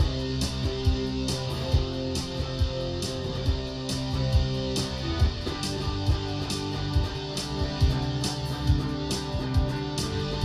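Guitar-led rock cover being played: strummed guitar over bass notes with a steady beat.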